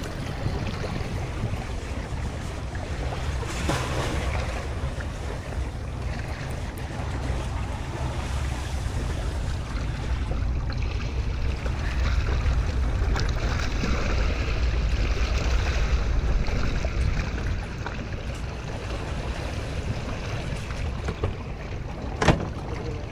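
Sea waves and wind at sea, with wind rumbling on the microphone; a single sharp knock near the end.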